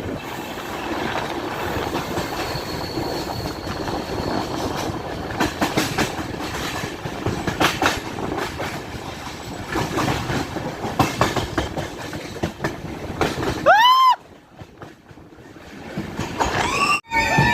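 Passenger train running along the track, its wheels clacking sharply and irregularly over the rail joints. About 14 seconds in, a brief tone sweeps up and back down, and the train sound drops away.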